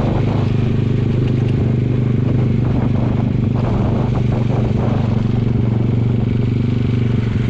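Motorcycle engine running steadily under way, with light rattles over the engine note.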